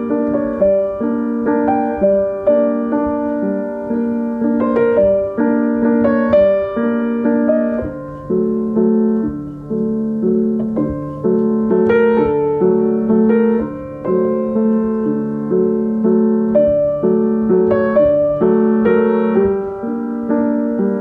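Background music: a slow, gentle solo piano piece with sustained chords and notes that ring and fade.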